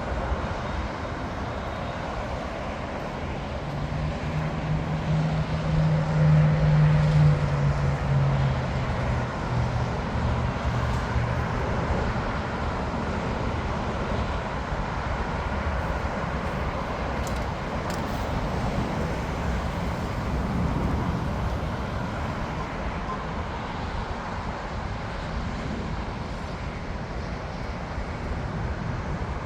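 Steady rumble of traffic around an airport, with one vehicle passing close about four seconds in, its engine note falling in pitch as it goes by.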